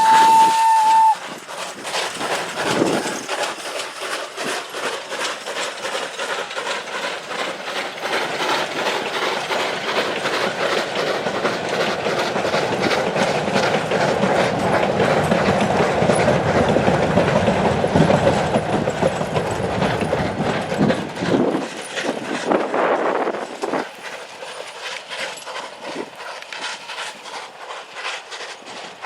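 A steam locomotive's whistle holding one steady note, cutting off about a second in. Then a train passing, its wheels clicking and knocking rapidly over the rail joints, growing louder toward the middle and fading near the end.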